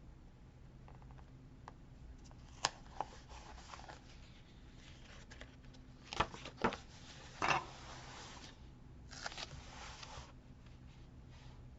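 Paper and stickers being handled: intermittent rustling and crinkling, with a few small sharp clicks.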